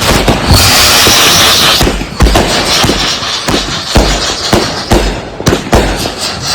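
Consumer firework cakes firing in quick succession: a rapid string of sharp bangs mixed with deeper booms, with a loud burst of hiss lasting over a second about half a second in.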